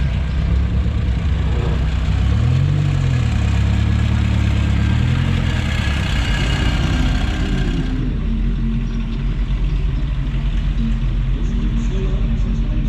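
Car engines running at low speed as arriving classic cars pull past, one engine's pitch rising and falling briefly about three seconds in. A rushing hiss stops about eight seconds in, leaving a steady engine note.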